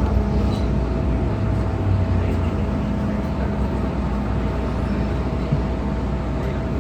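MTR Tsuen Wan Line M-Train (electric multiple unit) running between stations: a steady rumble of wheels on rail with a constant hum of traction equipment at a few pitches.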